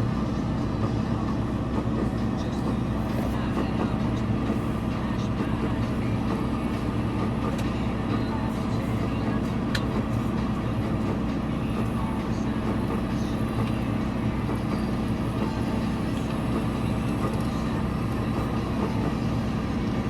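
A farm vehicle's engine running steadily at an even pitch, with no change in speed.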